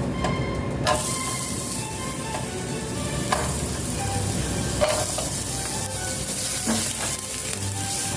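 Food sizzling in a hot frying pan, the sizzle starting about a second in, with a few sharp knocks of a utensil stirring it.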